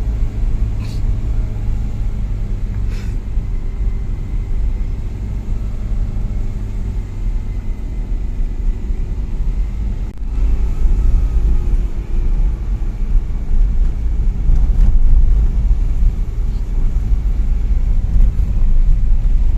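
A motor vehicle running: a steady low engine rumble that grows louder and rougher about halfway through.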